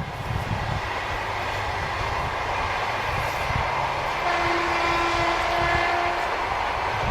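Passenger train hauled by an EP1M electric locomotive passing, its carriages rolling by with a steady rumble. About four seconds in, a steady pitched tone comes in over the rumble and holds for about two seconds.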